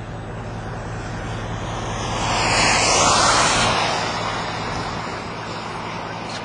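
A vehicle passing close by on the road, its tyre and engine noise swelling to a peak about three seconds in and then fading away, over a steady low hum and wind noise.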